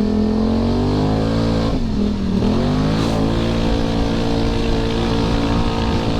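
Yamaha YZ450FX single-cylinder four-stroke dirt bike engine running at steady throttle. Its revs drop briefly about two seconds in, then pick back up.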